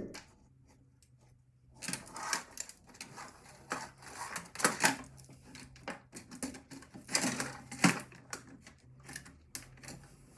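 Irregular clicks, knocks and scrapes of metal and plastic computer parts and tools being handled during disassembly. They start about two seconds in, with a few louder clacks near the middle.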